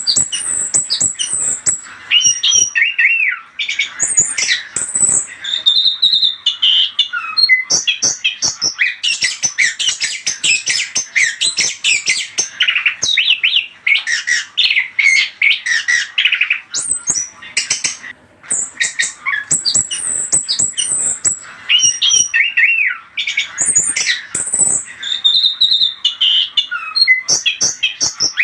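Orange-headed thrush (anis kembang) singing a continuous, rapid song of varied chirps, trills and whistled phrases, with brief pauses. The sequence of phrases comes round again after about eighteen seconds, like a looped lure recording.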